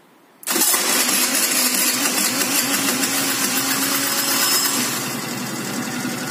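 Motor scooter engine starting about half a second in and then idling steadily, settling a little lower about five seconds in.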